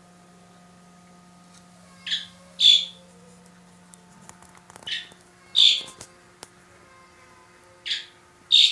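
A bird calling: three two-note calls, each pair about three seconds after the last, over a steady low hum.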